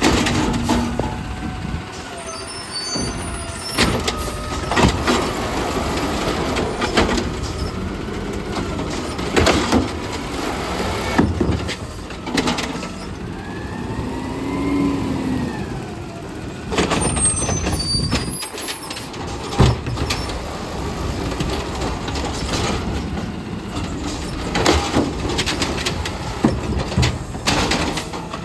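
Garbage truck collecting trash carts: the engine revs and a hydraulic whine rises and falls as the lift arm works. Sharp bangs come again and again as carts are slammed and dumped into the hopper, with air-brake hisses between.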